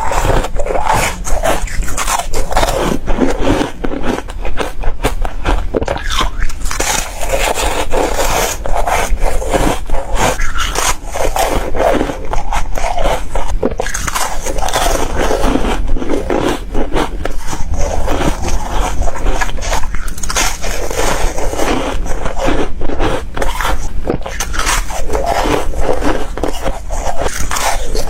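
Crispy frozen foam being bitten and chewed close to the microphone: a continuous, dense run of loud crunches and crackles.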